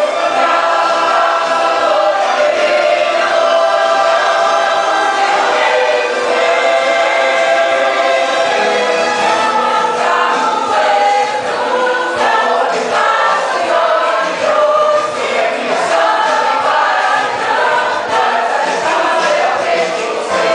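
Choir singing a gospel hymn, many voices holding sustained notes together.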